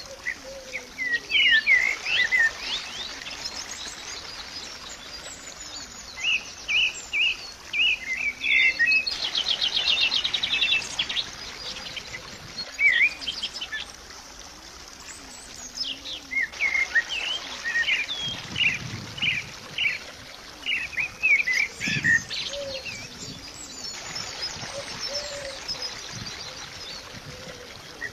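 Birds chirping and singing in clusters of short calls, with a fast trill about ten seconds in.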